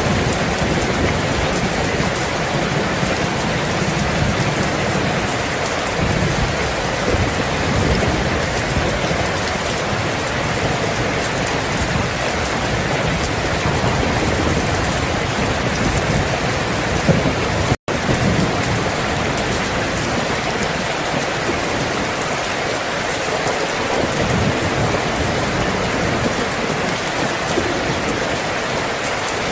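Steady heavy rain falling on surfaces, with low rolling thunder rumbling under it through the first part, fading later. The sound cuts out for an instant about two-thirds of the way through.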